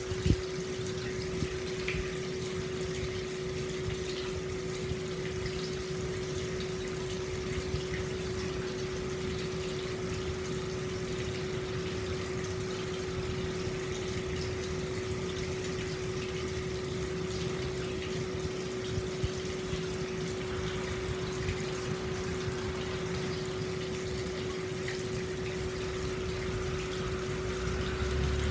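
Hot-spring water flowing and splashing steadily into an open-air bath, with a steady humming tone running under it.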